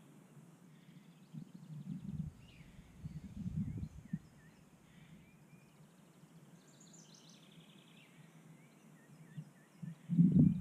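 Small birds calling with short chirps, and a falling trill about seven seconds in, over gusts of wind buffeting the microphone around two and four seconds and again near the end.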